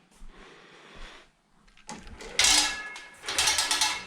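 Metal hand tools clattering and clinking together as they are rummaged through, starting about halfway in after a quiet stretch.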